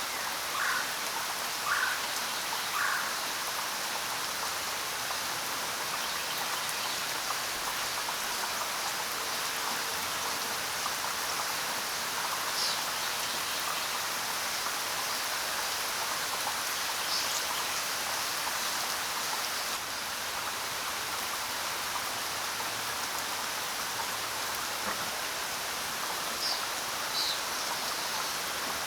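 Steady rainfall hiss, with a few short bird chirps: three lower ones in the first three seconds and a handful of higher, thinner ones scattered later.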